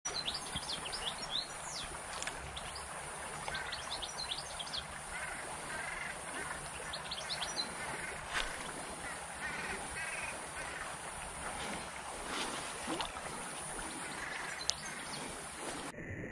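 Small birds chirping: clusters of quick, high, falling chirps and a few short warbling phrases, over a steady background hiss.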